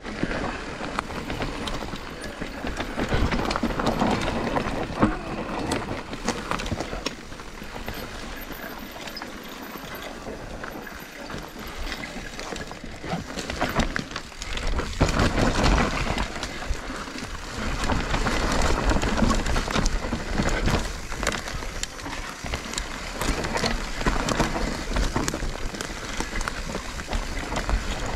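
Mountain bike riding down a dry, dusty dirt trail: tyres rolling and crunching over loose dirt with constant rattling and clicking from the bike, over a low rumble of wind on the microphone. The noise swells and eases with speed.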